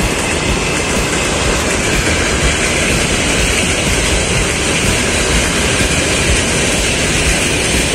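Freight train rolling past, its wagons making a steady noise on the rails.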